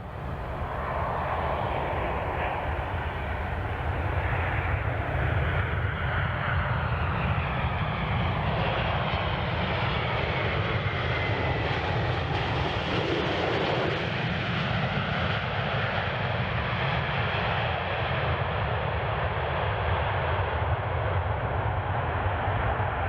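Boeing 767 freighter's jet engines running, a loud steady roar with a deep rumble and a faint sloping whine partway through.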